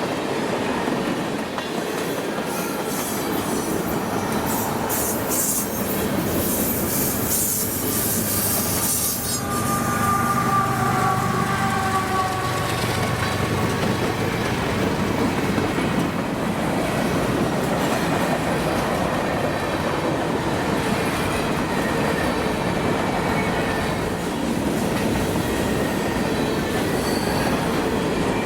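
Freight train cars rolling past steadily, wheels clicking over the rail joints, with a brief squeal of the wheels about ten seconds in.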